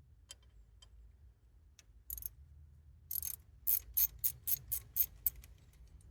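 Ratchet spanner clicking in short strokes while undoing the nuts of a Kubota D905 diesel's glow plug bar: a few scattered clicks, then a quick run of about seven louder clicks in the second half.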